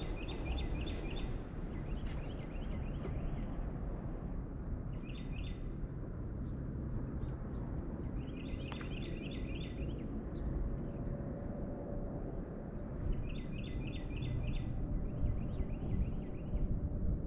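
A songbird calling in short bursts of rapid repeated chirps, several times, over a steady low rumble of outdoor background noise; one sharp click sounds about nine seconds in.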